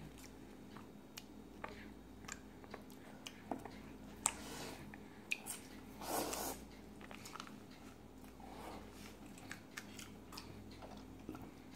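An infant munching a small crunchy snack: faint, scattered crunches and mouth clicks, with a brief louder noise about six seconds in.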